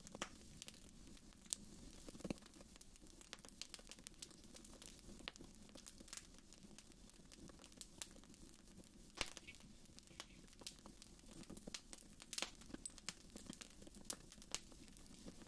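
Wood fire in a fireplace crackling quietly: irregular sharp pops and snaps over a soft steady rustle of the flames, with a few louder pops about nine and twelve seconds in.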